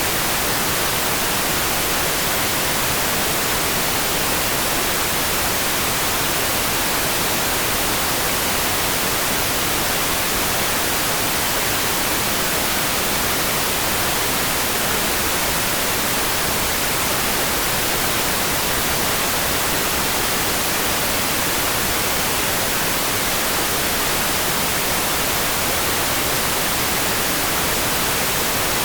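Steady, even hiss of white-noise-like sound sold as rain, unchanging throughout, with no separate drops, thunder or other events.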